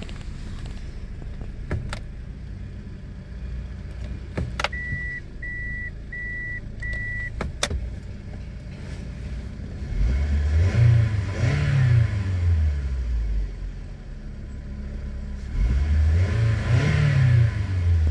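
Toyota Estima's 2AZ-FE 2.4-litre four-cylinder engine idling, then revved twice to mid revs, each time rising and falling back, about ten and sixteen seconds in. Four short electronic beeps and a few clicks sound in the first half.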